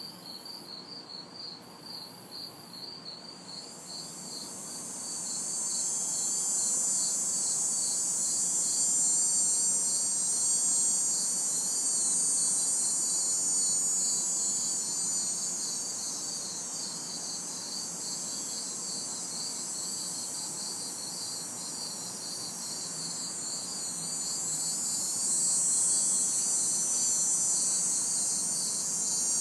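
Night insect chorus: crickets chirping in a steady, fast pulsing rhythm while a cicada buzz swells in about four seconds in, eases off midway and rises again near the end. Faint distant traffic hum sits underneath.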